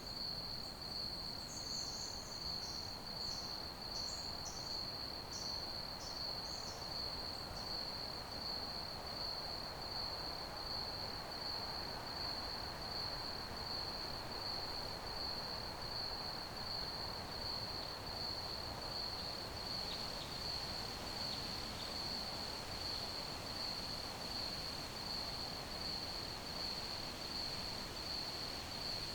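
Crickets chirping in one steady, unbroken high trill, over a soft background hiss. A run of short, higher chirps comes through during the first several seconds.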